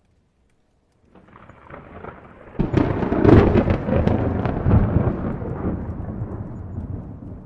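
Thunderclap. A low rumble starts about a second in and builds into a sudden loud crash with several sharp cracks, then rolls away in a long rumble that slowly fades.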